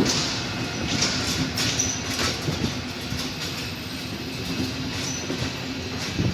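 Train running over station tracks, its wheels clicking over rail joints under a steady hum, with a couple of short high wheel squeals.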